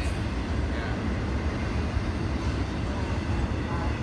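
Double-stack intermodal freight train rolling past: a steady low rumble of the container cars' wheels on the rails.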